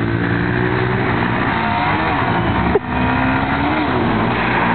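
Motorcycle engine running, its pitch rising and falling with the throttle, with a sudden brief break a little before three seconds in.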